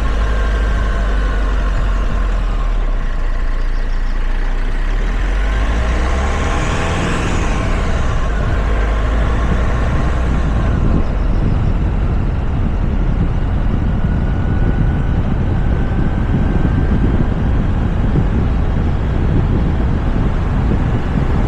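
Steady road rumble and wind noise from a moving Toyota RAV4, picked up by a roof-mounted camera. About seven seconds in, a higher sound swells and fades with a rise and fall in pitch.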